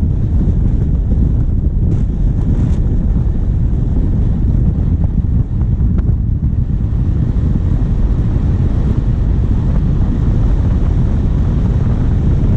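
Steady low rumble of wind buffeting a bonnet-mounted microphone, over a diesel engine running as the vehicle drives along.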